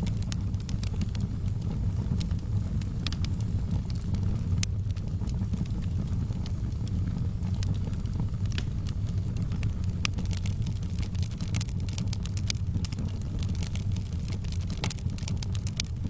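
Fire crackling in a fireplace: a steady low rumble of the burning fire with frequent sharp crackles and pops scattered throughout, more of them clustered in the second half.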